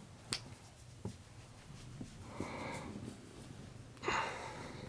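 A sharp click, then two soft breathy sniffs, the second louder, about four seconds in.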